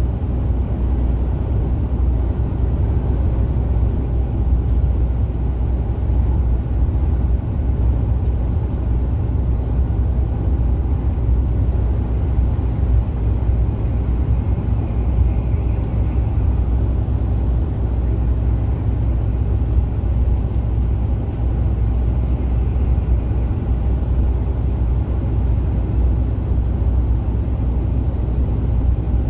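Mercedes Actros truck under way on the highway: a steady, even low rumble of engine and tyre-road noise that holds unchanged throughout.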